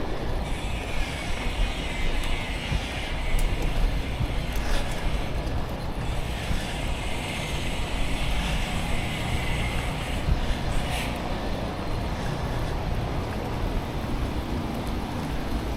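Wind buffeting the microphone of a neck-mounted action camera on a moving bicycle, a fluttering low rumble throughout. A higher hiss rises and fades twice.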